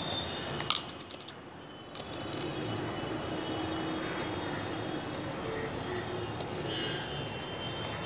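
Short, high bird chirps, one every second or so, over a steady low background hum, with a sharp click under a second in.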